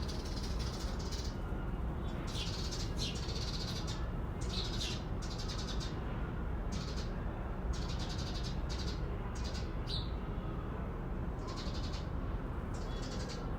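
A waterfall's steady rush, with small birds chirping over it in repeated bursts of high, fast trills and short rising notes.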